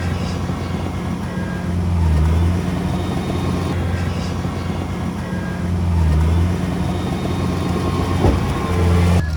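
Heavy diesel engine of earthmoving equipment running steadily, swelling louder twice as it works, with a sharp knock about eight seconds in.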